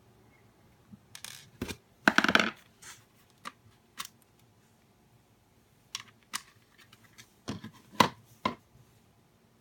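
Small plastic parts of a nail dust collector being handled while it is taken apart: scattered clicks and knocks, with a louder scraping rattle about two seconds in.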